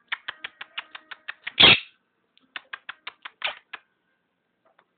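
Pet talking parrot making quick series of sharp clicks, about six a second, in two runs, with one louder, longer burst between them.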